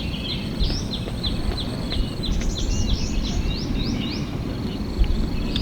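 Small birds chirping in a quick run of short, sweeping notes, several a second and busiest after about two seconds in, over a steady high insect-like trill and a constant low rumble.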